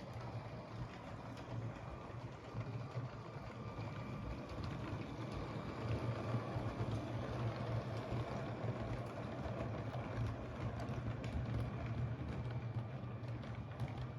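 LEGO train running on plastic track: a steady motor hum and wheel noise with light clicking, louder for a stretch from about halfway through as the train passes closer.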